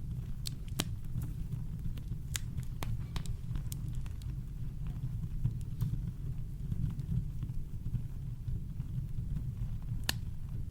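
Campfire crackling: scattered sharp pops and snaps, several in the first few seconds, then sparse, with one stronger pop near the end, over a steady deep brown-noise rumble.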